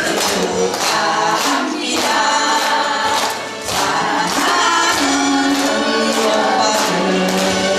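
A group of voices singing together over percussion strokes keeping a steady beat, from a Korean pungmul folk troupe.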